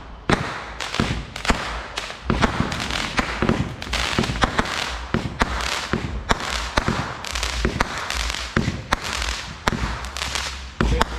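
Fireworks going off in rapid succession: many sharp bangs and pops, several a second, over a continuous noisy crackle.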